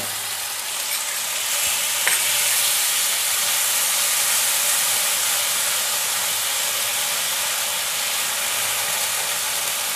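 Spice masala of chopped tomato, green chillies, ginger-garlic paste and onion paste sizzling steadily in hot oil in a non-stick kadai, worked around with a spatula, with a single light click about two seconds in.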